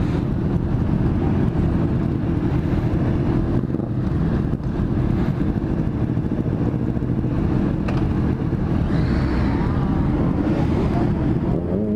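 Motorcycle engines running steadily in a large group ride, a dense low rumble with wind on the microphone. Near the end, other bikes' engines rise and fall in pitch as they rev.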